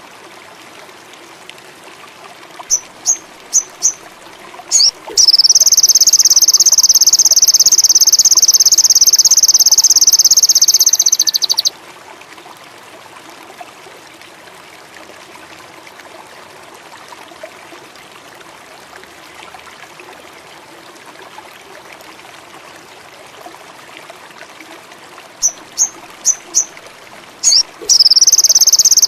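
Sogon indigo songbird singing: four short, sharp high chirps, then a loud, steady high trill lasting about six seconds that stops abruptly. The same phrase starts again near the end. Between the songs there is a soft steady chorus of insects or frogs.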